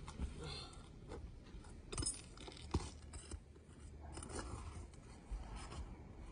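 Scraping and rubbing of a prying tool worked under asphalt roof shingles to free the nails, with a few sharp clicks, the loudest about two seconds and nearly three seconds in.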